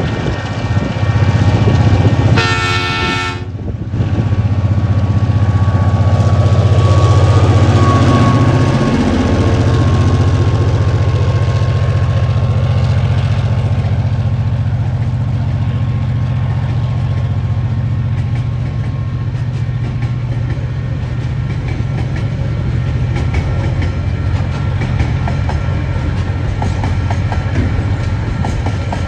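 TasRail DQ class diesel-electric locomotive sounds one short horn blast about two seconds in, then passes with its engine running loudly; the engine note drops around nine seconds in. Freight wagons follow, rolling by with a steady rumble and wheel clickety-clack.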